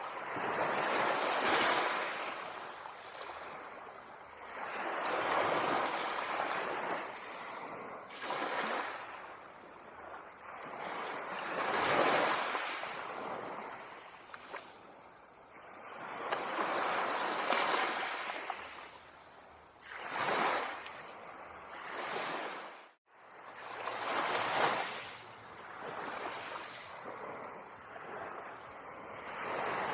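Ocean waves breaking and washing up a beach, each surge swelling and fading every few seconds. The sound cuts out for a moment about two-thirds of the way through.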